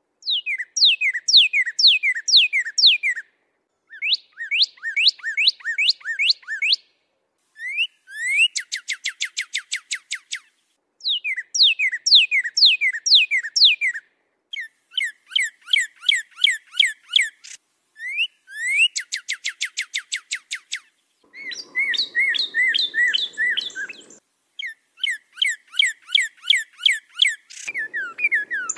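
Songbird song: phrases of rapidly repeated whistled notes, mostly sliding downward, each phrase a few seconds long with short silent gaps between them. The song comes from a bird-training (masteran) recording.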